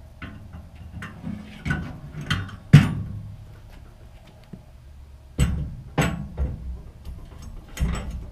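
Steel motorcycle hitch rack knocking and clanking as it is handled and fitted into the pickup's hitch receiver. A run of sharp metal knocks, the loudest about three seconds in, with more clanks near the end.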